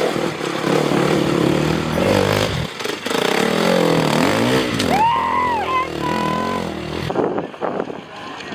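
Dirt bike engine revving up and down repeatedly, the pitch rising and falling in quick swells.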